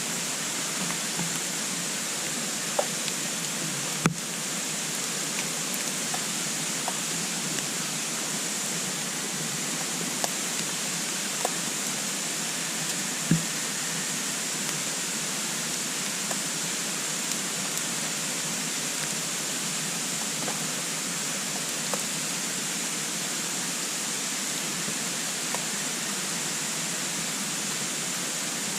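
Wood fire burning in a compact twig stove: a steady rushing noise with scattered small crackles and pops, a sharp click about four seconds in and a louder pop near the middle.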